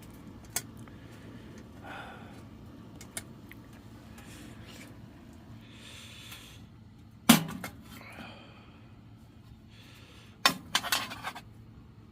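Cookware and utensils clinking and knocking now and then, with one sharp knock about seven seconds in and a short cluster of clattering near the end.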